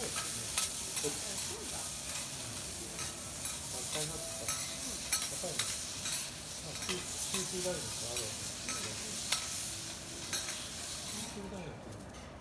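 Bean sprouts and greens sizzling on a hot steel teppanyaki griddle while two metal spatulas scrape, toss and tap against the plate, clicking many times. The sizzle dies down near the end as the vegetables are lifted off the griddle.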